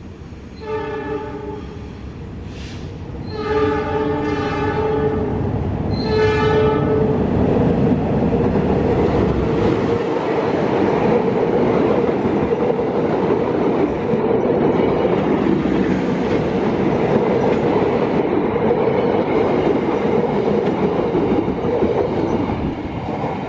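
A diesel passenger train sounds its horn in three blasts, then passes close by with a loud, steady rumble of wheels and engine that builds about three seconds in. The horn sounds again near the end.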